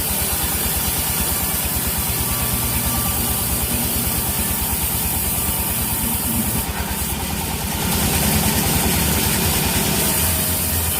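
Sawmill engine running steadily with an even, rapid low throb, with a short burst of hiss a little past the middle.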